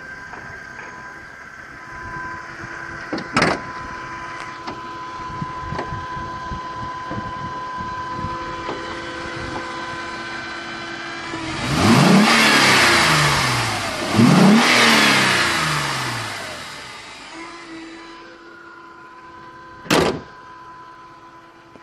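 Mercedes-Benz E350 4Matic's V6 engine idling with a steady whine, then revved twice about midway, each rev climbing and falling back over a couple of seconds. A sharp knock sounds shortly after the start and again near the end.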